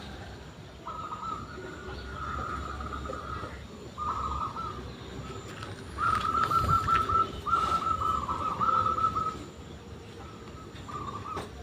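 Zebra dove cooing: a series of short, rapid, staccato phrases, the loudest coming in the middle, with pauses between them.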